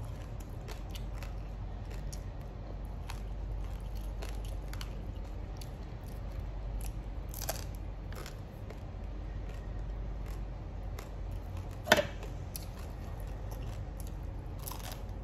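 A person eating close to the microphone: bites and chewing with small crunchy clicks, and one louder sharp click near the end.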